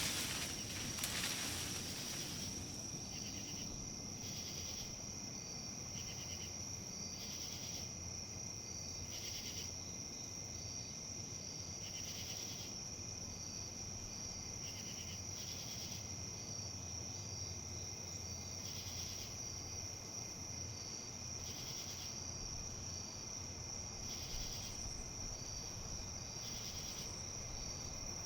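Insects trilling steadily in a high, unbroken tone, with a second insect chirping irregularly every second or two. A brief gust of wind through leaves at the start, and a low, faint wind rumble throughout.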